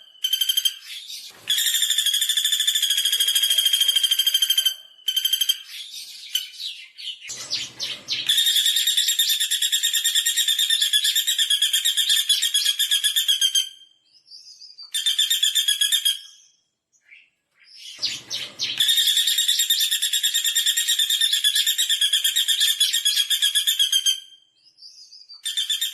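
Pelatuk bawang woodpecker calling in long, fast, buzzy trills several seconds each, repeated with short gaps. A couple of brief low thumps come between the trills.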